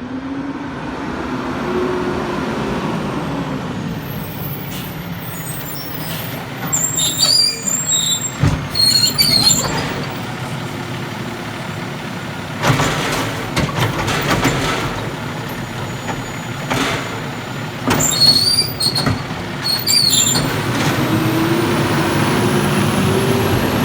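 Peterbilt 320 garbage truck's diesel engine running and revving, its pitch rising and falling. Brakes squeal twice, about a third of the way in and again past the middle.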